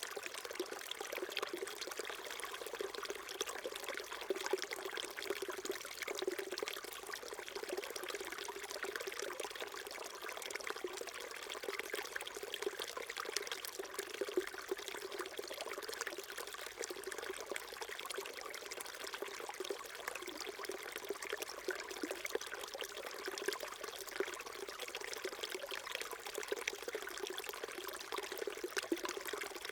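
Small mountain stream trickling and babbling over rocks, a steady, even rush of running water with fine gurgling detail.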